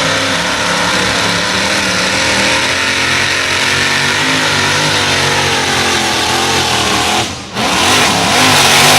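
Modified pulling tractor's engine running at full throttle, a loud steady sound whose pitch wavers slightly. It cuts out for a moment about seven and a half seconds in, then comes straight back.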